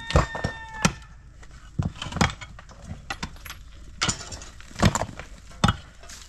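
A rooster crowing, its call ending just under a second in, then a series of irregular sharp knocks and clatters.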